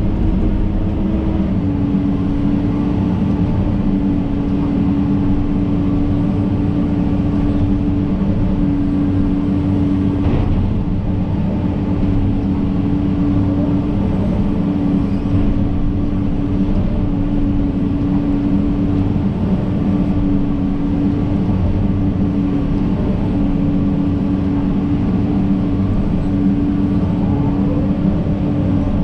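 John Deere 130G excavator's diesel engine running steadily under work, a constant drone that drops slightly in pitch about a second and a half in.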